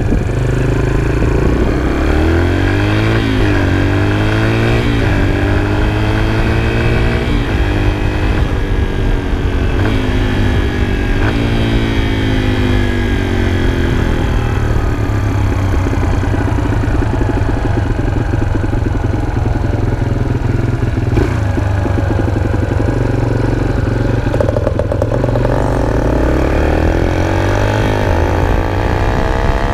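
Four-stroke dirt bike engine running and revving, its pitch rising and falling again and again.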